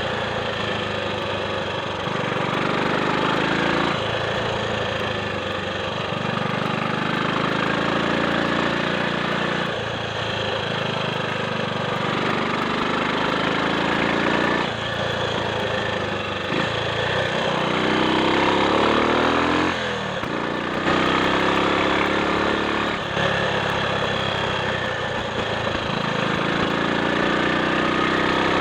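Triumph Sports Cub's single-cylinder four-stroke engine running on the road, its pitch climbing and then dropping back sharply about five times, every four to six seconds.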